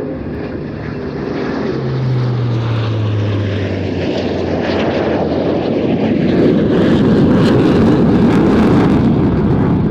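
Airbus A400M's four turboprop engines passing with a propeller drone that falls in pitch, followed by a broader, louder aircraft engine roar building through the second half.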